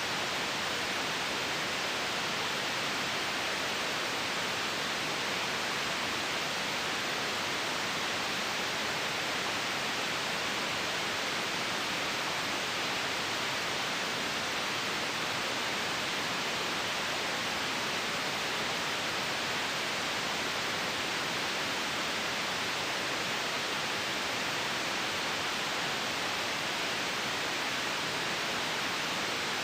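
Steady white-noise hiss, even and unchanging, brightest in the upper middle with little bass.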